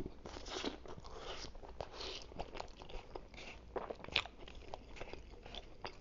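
Close-miked chewing of hand-cut fries covered in ketchup: irregular small wet mouth clicks and smacks. A sharper click comes about four seconds in.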